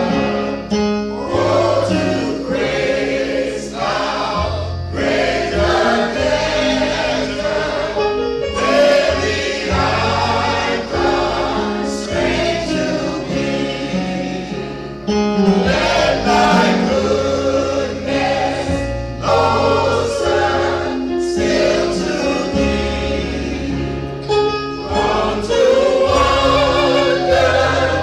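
Choir singing a gospel song over instrumental accompaniment with sustained bass notes.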